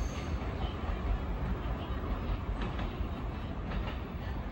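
Electric commuter train running on the tracks: a steady low rumble, with a few faint clicks of wheels over rail joints partway through.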